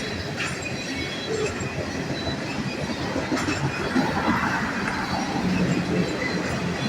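Freight train of tank cars rolling past: a steady rumble of wheels on the rails, with a few sharp clicks and a faint wheel squeal.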